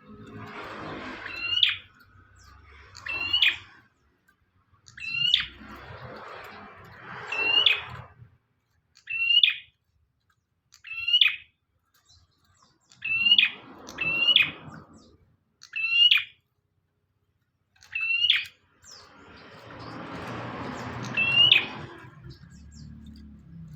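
A prinia (prenjak) calling over and over in short, sharp chirps, about one every one to two seconds.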